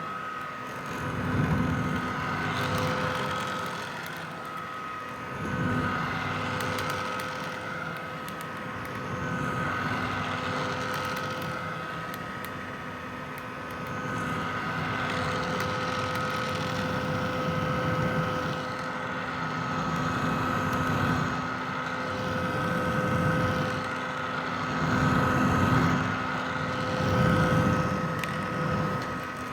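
Red vintage hair dryer running continuously: a steady rush of air with a constant motor whine, its loudness swelling and falling gently every few seconds.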